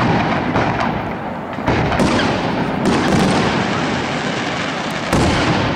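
Aerial firework shells bursting one after another. There are sudden loud booms about two seconds in, again about a second later, and again near the end, each trailing off in a long echo.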